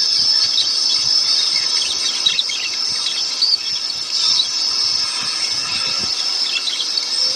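Forest ambience: a steady, high insect chorus with bird calls chirping on and off through it.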